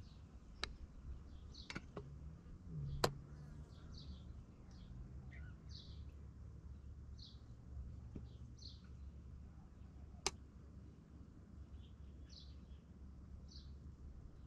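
A bird chirping, short high calls repeated roughly once a second, over a low steady rumble. A few sharp clicks cut through, the loudest about three seconds in and another about ten seconds in.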